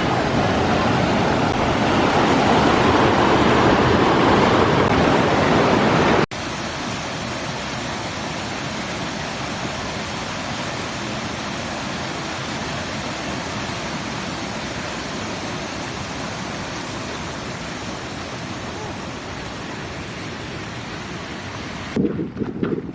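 Creek water rushing steadily over rocks. After about six seconds it cuts abruptly to a slightly quieter stretch of the same rushing, and near the end it turns uneven and gusty.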